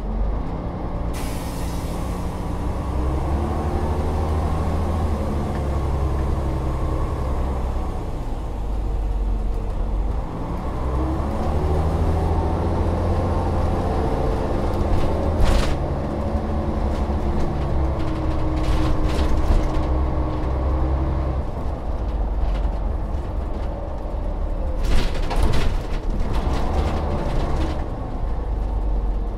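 Volvo Olympian double-decker bus's diesel engine running under way, its pitch climbing and dropping several times as it works through the gears. Short hisses of compressed air from the air brakes come about halfway through and again a few seconds before the end.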